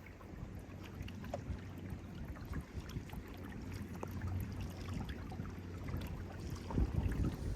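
Wind rumbling on the microphone over water sounds from a canoe, with scattered small clicks and drips; the wind gusts harder near the end.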